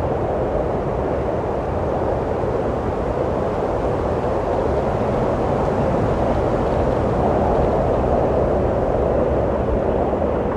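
Steady rushing wind, a dense low roar that swells a little midway through.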